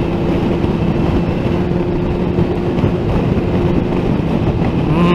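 Inline-four sport motorcycle engine running at steady cruising revs, its pitch holding constant, over a steady rush of wind and road noise.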